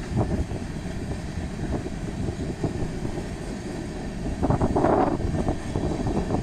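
Freight train of covered hopper cars rolling past close by: a steady rumble of steel wheels on the rails with scattered clicks over the rail joints. It grows louder for about a second about two-thirds of the way through.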